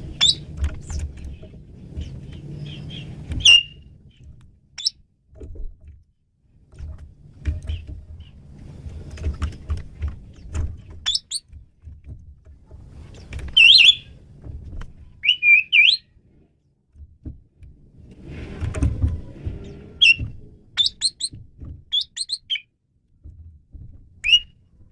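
Asian pied starling (jalak suren) giving scattered short whistles and chirps, some sliding in pitch, with pauses between phrases. A low rumble comes and goes beneath the calls.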